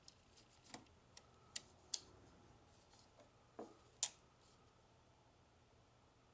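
Light clicks and taps of small vending-machine parts being handled during disassembly: about half a dozen sharp ticks in the first four seconds, the loudest about four seconds in.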